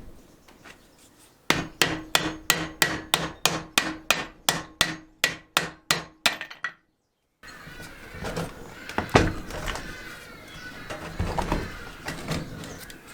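A hammer striking the seized Honda lawnmower engine in a steady run of about fifteen blows, roughly three a second, each with a short metallic ring. After a brief silent cut, scraping and handling noises follow, with a few knocks.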